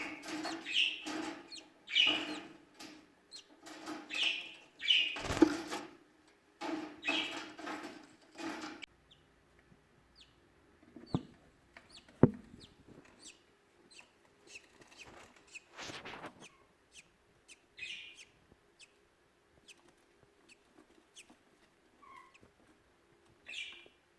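Birds calling: a run of loud, rapid, chattering calls for about the first nine seconds, then only scattered short chirps and clicks.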